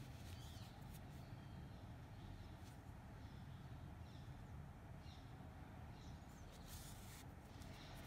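Faint birdsong through an open window: short chirps every second or two over a low, steady background hum. A couple of soft rustles come from handling, about three and seven seconds in.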